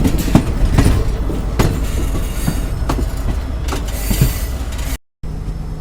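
Passenger train wheels clattering over rail joints as the Howrah–Balurghat Express rolls into the station, a steady rumble with irregular sharp knocks. It cuts off abruptly near the end, giving way to a steady low hum.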